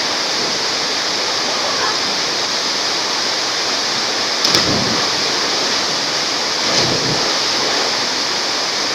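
Waterfall rushing steadily, a loud even roar of falling water, with two brief splashes or knocks about four and a half and near seven seconds in.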